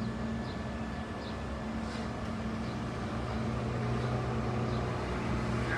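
A steady low mechanical hum, with faint short high chirps of small birds here and there.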